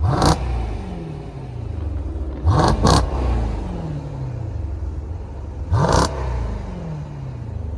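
Car engine at idle, revved in four quick blips: one at the start, a quick pair a little before the middle, and one near the end. Each time the revs fall straight back toward idle.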